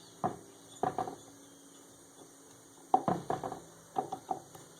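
Short metal clanks and knocks in irregular groups as a tight-fitting part is beaten and worked loose from a shaft on a John Deere STX38 lawn tractor transaxle.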